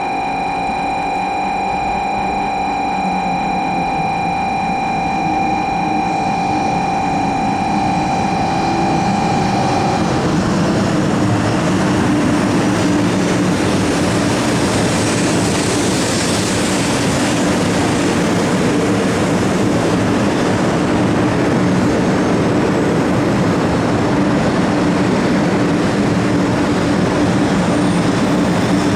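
500 series Shinkansen train arriving at a station: a rising rush of wheels and air with a steady motor hum that carries on as it slows along the platform. Before it, a steady high electronic tone holds for about ten seconds, then cuts off.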